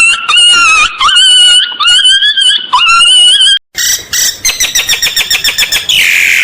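An animal's high-pitched whining squeals, repeated about six times. After a brief break comes a fast run of short, even chirping calls.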